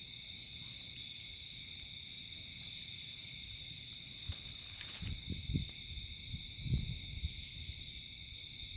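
A steady, shrill chorus of night insects, such as crickets, with a sharp crackle or two from the campfire. Low muffled thumps and rumbles come in about halfway through.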